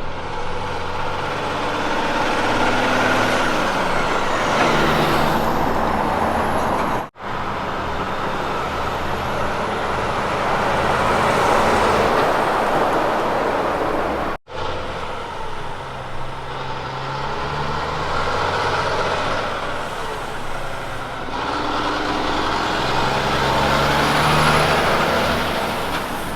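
Kenworth K200 road trains driving past, their diesel engines pulling under load with loud tyre and road noise that swells and fades as each truck goes by. The sound breaks off abruptly twice, where one passing truck is cut to the next.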